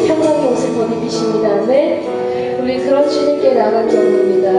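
Slow worship music from a praise band: held chords underneath, with a singer's voice gliding over them.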